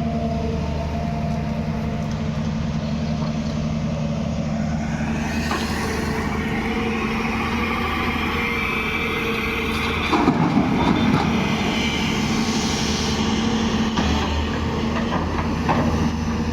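Excavator's diesel engine running steadily, joined about five seconds in by a higher, wavering whine, with a burst of clattering about ten seconds in.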